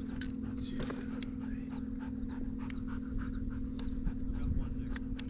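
Steady insect drone, crickets or cicadas, with a few faint clicks and rustles over it.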